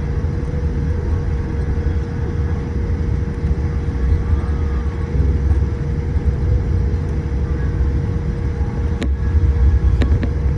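Airliner cabin noise after landing: a steady low rumble with a constant hum, and a few sharp clicks near the end.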